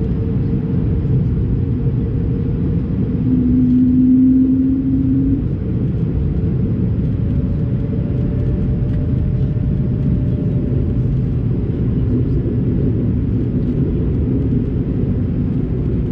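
Airliner cabin noise inside an Airbus A220-300 in flight: a steady low rumble of the Pratt & Whitney PW1500G geared turbofans and airflow. A steady low hum rises over it about three seconds in and stops about two seconds later.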